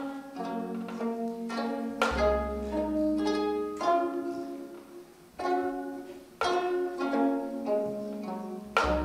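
Gayageum ensemble plucking a slow melody, each note ringing and fading. A deep low note sounds under it about two seconds in and again near the end.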